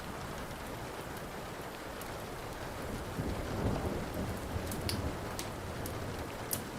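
Steady rain with a low roll of thunder swelling up and fading about halfway through. Sharp pops and crackles of a burning wood fire come several times near the end.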